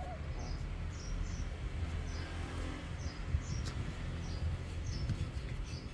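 A small bird chirping repeatedly: short, high chirps about twice a second, over a steady low rumble.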